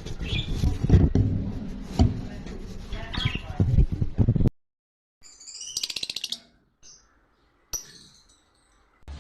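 Lovebirds chirping: a few short high chirps over a low rumble and scattered knocks, then the sound cuts off abruptly about four and a half seconds in. After a short gap a quick run of chirps lasts about a second, followed by a single click.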